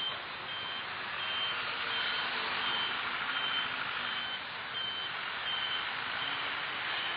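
A truck's reversing alarm beeping steadily, about three beeps every two seconds, over the steady noise of vehicles.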